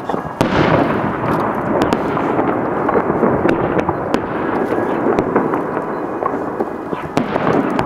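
Aerial fireworks bursting: a loud boom about half a second in, then a continuous rumble of overlapping booms with many sharp crackling pops, and another burst near the end.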